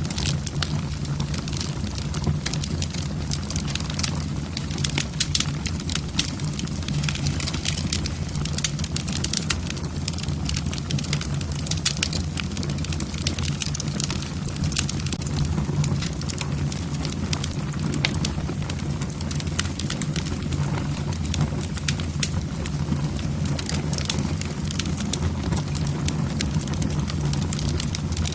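Wood fire burning in a fireplace: logs crackling with many small sharp pops over a steady low rumble of the flames.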